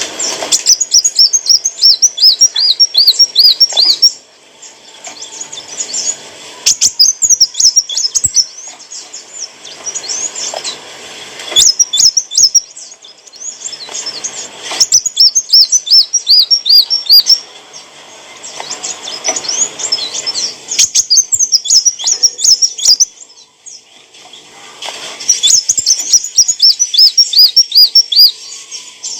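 Kolibri wulung sunbird singing: phrases of rapid, high, twittering up-swept notes, each a second to three seconds long, repeated again and again with short pauses between.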